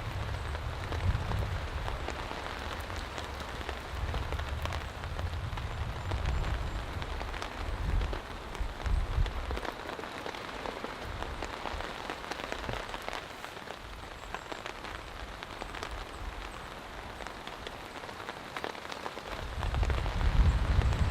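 Heavy thunderstorm rain falling steadily, with many individual drops ticking through the hiss. An uneven low rumble comes and goes in the first half, and a loud deep rumble builds near the end.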